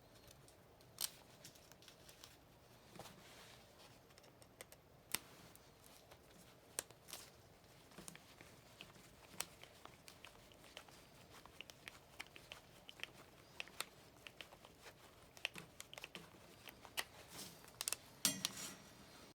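Scattered sharp clicks and snaps of armored BX cable being bent and cut with diagonal cutters, with faint crinkling handling noise between them.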